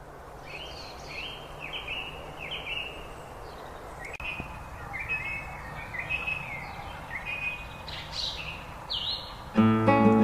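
Birds chirping and trilling in short repeated phrases over a steady background hiss. Strummed acoustic guitar music starts near the end.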